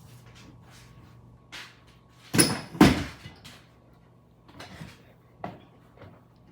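Kitchen cupboard doors banging shut twice in quick succession, followed by a few lighter knocks, over a low steady hum.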